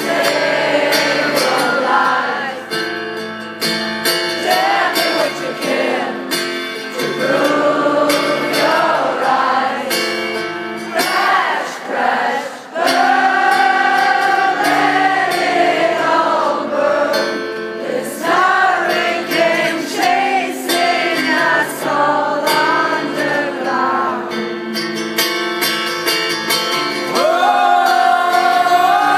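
Live rock music: singing with held, wavering notes over guitar, from a band playing live.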